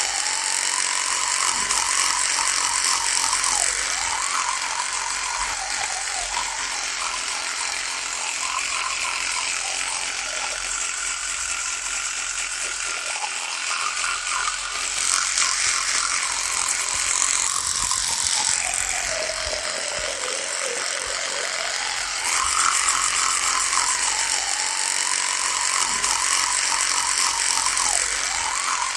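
Electric toothbrush running with a continuous buzz. Its pitch wavers throughout and sags lower for a few seconds past the middle before coming back up.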